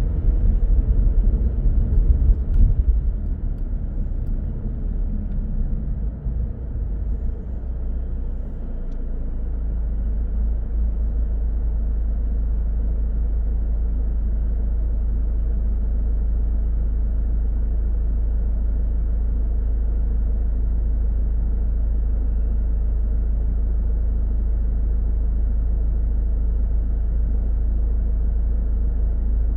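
Low road and engine rumble of a car being driven, as picked up by a dashcam. It is uneven for about the first nine seconds, then settles into a steady low hum.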